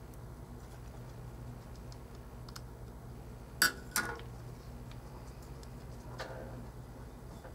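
Small tools and parts handled while reassembling an iPhone 4: two sharp clicks close together about halfway through, with a few faint ticks around them, over a steady low hum.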